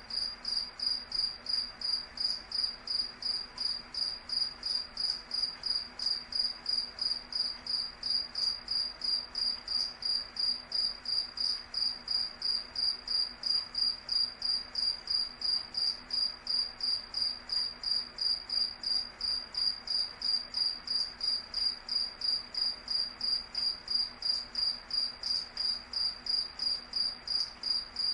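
A cricket chirping, a high single-pitched chirp repeated steadily at an even, quick pace.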